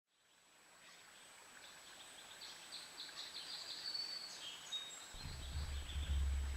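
Small birds calling at a feeder: a quick series of high chirps, then a couple of short high whistled notes. About five seconds in, a low rumble starts suddenly and drowns them out, with a thin steady high whine underneath throughout.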